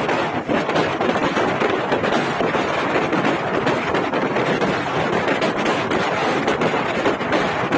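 Highway traffic noise with wind buffeting the microphone: a loud, steady wash of noise with a constant crackle.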